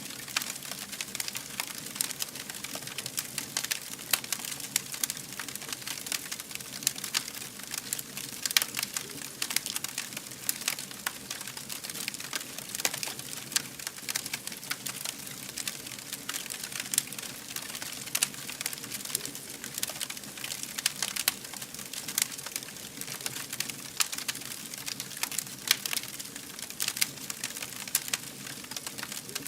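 Fire burning and crackling, with many small irregular pops and snaps and an occasional louder crack over a steady hiss.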